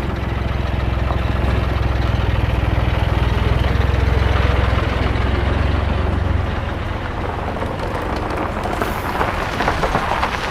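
An engine running steadily, with a strong low hum that drops away about six seconds in while a rattling running noise carries on.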